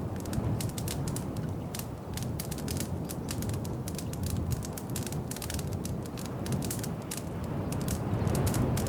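Wood fire crackling in a fireplace: a dense, irregular run of quick pops and snaps over a low, steady rumble.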